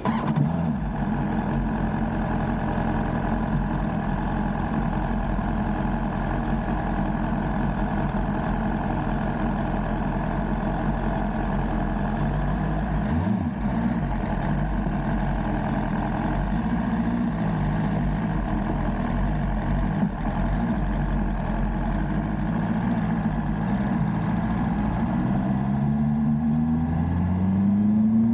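BMW S1000R inline-four engine running steadily while riding, with a brief dip about halfway through and the revs climbing near the end.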